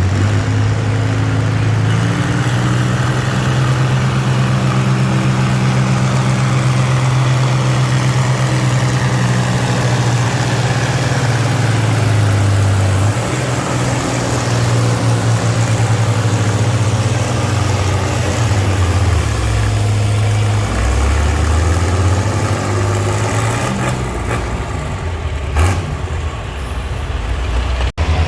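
Antique tractor engine running hard while pulling at a tractor pull. The engine note holds steady at first, then wavers and drops in pitch in the second half, with a short sharp knock near the end.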